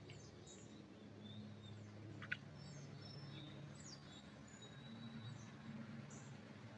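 Faint songbirds chirping and calling sparsely with short, high notes, one sharper chirp a little past two seconds in, over a steady low hum.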